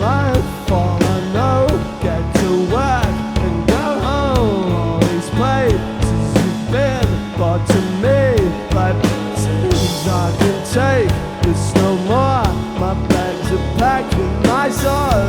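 Live rock band playing at full volume: drums and a steady bass line under a melodic lead line whose notes swoop up and down in pitch.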